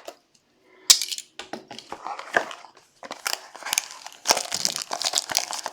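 Plastic wrap and cardboard packaging of a trading card box crinkling and crackling as it is handled and opened, an irregular run of crackles starting about a second in.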